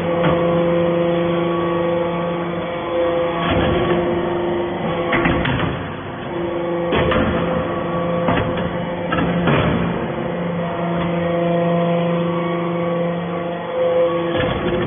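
Hydraulic metal-shavings baler running: a steady machine hum that drops out briefly now and then, with several loud metallic clanks.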